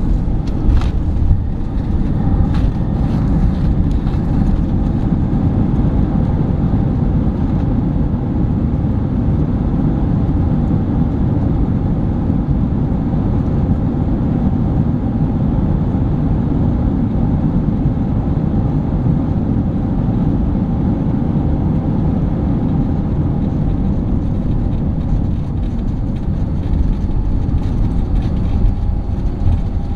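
Steady loud roar in an Airbus A321's cabin, from its engines and airflow during final approach and landing, heavy in the low rumble, with a few brief clicks in the first seconds.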